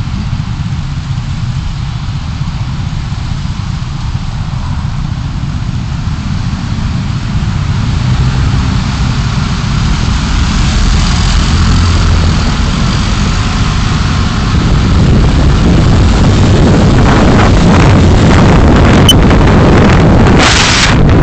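Car driving: a steady low rumble of engine and road noise that grows louder over the second half, with two brief rushes of noise near the end.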